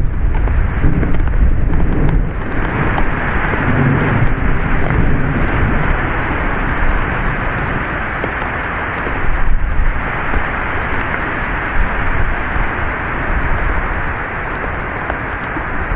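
Heavy rain and gusty wind of a strong thunderstorm, the wind buffeting the microphone. A deep rumble is strongest in the first few seconds, and a steady hiss of pouring rain fills in a couple of seconds in.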